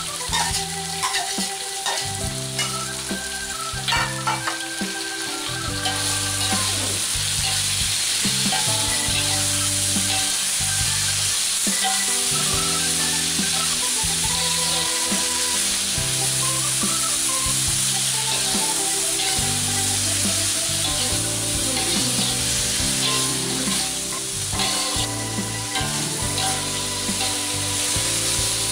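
Chopped long beans stir-frying in a metal wok: a steady sizzle with the spatula stirring and scraping. The spatula clacks against the pan in the first few seconds, and the sizzle grows louder about six seconds in. Soft background music with held notes plays underneath.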